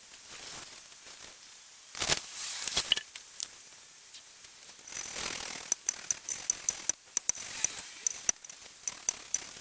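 Valves being lapped into a Mini 1293 race engine's cylinder head: metal scraping on metal, then a fast run of sharp, ringing metallic clicks in the second half.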